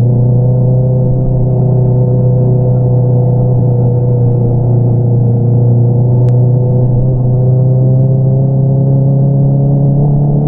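Honda CBR650R inline-four with an Akrapovič single-outlet exhaust, running at a steady cruise, its exhaust note climbing slowly in pitch toward the end as the revs rise.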